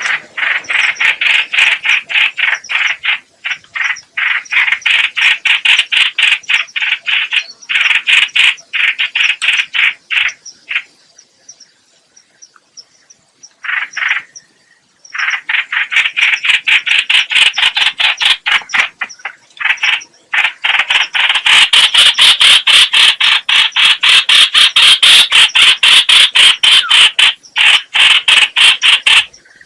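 Rapid chattering calls of the bird known in Vietnam as trao trảo (chao chảo, hoành hoạch): runs of quick repeated notes broken by short pauses. The calls stop for a few seconds about a third of the way in, then return louder and faster.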